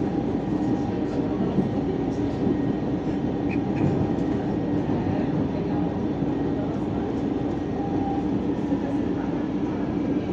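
Steady running rumble and hum inside a moving CPTM Line 13 electric commuter train.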